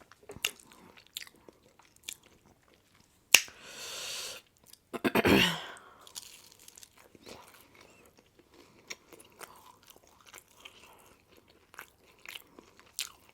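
A person chewing and biting into pizza, with many small wet mouth clicks and crunches. There is a sharp click about three seconds in, a short rush of noise after it, and a louder burst about five seconds in.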